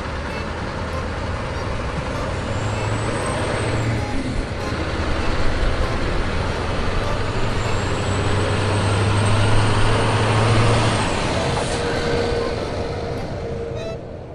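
A motor vehicle engine running with steady road noise. Its low hum swells twice, most strongly in the middle, and the sound eases off near the end.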